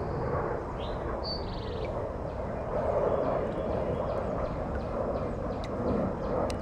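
Steady rumble of an airplane passing overhead. A short bird call and a buzzy trill come about a second in, and a few faint chirps follow.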